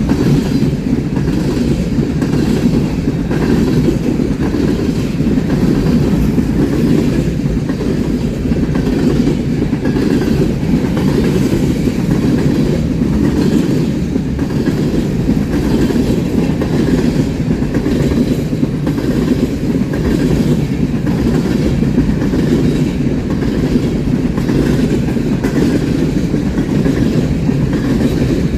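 A train's cars rolling steadily past at close range, a continuous low rumble with a faint regular clatter of wheels.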